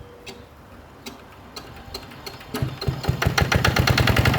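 Yanmar TS50C single-cylinder diesel engine cold-started by hand crank: a few light ticks while it turns over, then with the decompression released it fires and catches about two and a half seconds in, running up with a rapid, even beat.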